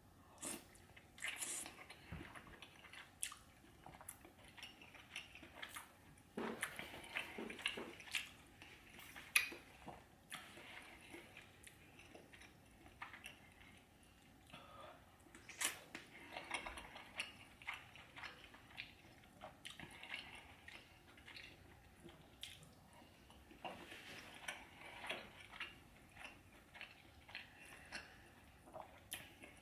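Close-up eating sounds of a seafood boil in buttery sauce: wet chewing and smacking, with scattered sharp clicks and squelches as the saucy food is handled.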